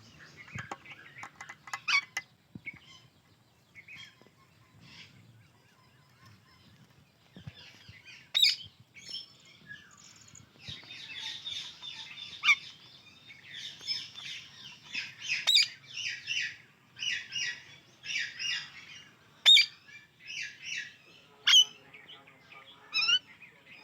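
Indian ringneck and alexandrine parakeets chirping and chattering. After a sparse few seconds, runs of rapid high chatter come and go, broken by several short, loud, sharp calls.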